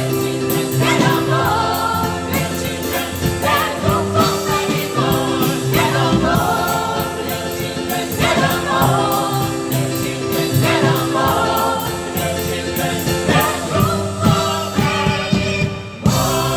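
Gospel choir singing over a steady accompaniment of held low notes. The music drops out for a moment near the end and comes straight back in.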